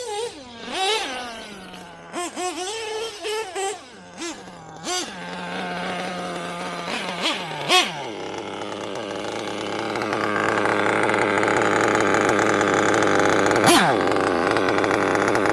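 Small nitro engine of a Losi 8ight-T 1/8-scale RC truggy, revved up and down in quick repeated blips, then held at a steadier note before a longer, louder full-throttle run. A sharp fall in pitch comes near the end.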